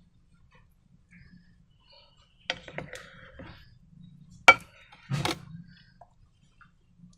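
Sharp clicks and knocks of small hard objects being handled: a cluster of them about two and a half seconds in, a single loud click about four and a half seconds in, then a short crackling burst.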